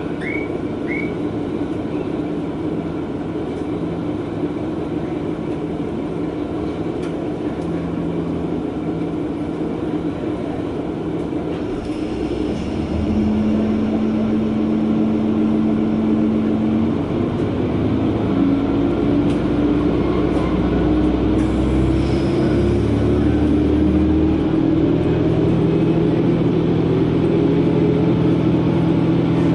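KiHa 120 diesel railcar heard from inside, with a steady engine and running rumble. About twelve seconds in the engine grows louder under power. From about eighteen seconds its note rises slowly and steadily as the train picks up speed.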